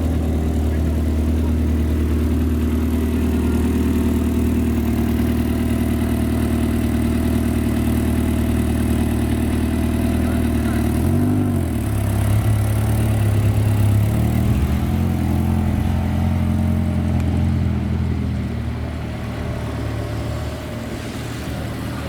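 Car engine idling steadily, with one quick throttle blip about halfway through that rises and falls back to idle.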